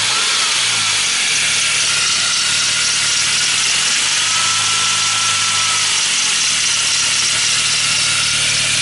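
Saab 9-3's B204 turbocharged four-cylinder engine running just after a cold start, with a steady, loud weird rhythmic mechanical noise and hum over it. The owner says the noise lasts only the first 5–10 minutes, then goes silent.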